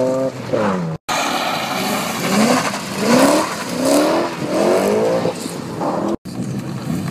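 Drag cars launching hard off the line: an engine's note first falls away, then after a brief gap another car's engine climbs in pitch again and again, each climb breaking off as it shifts up through the gears.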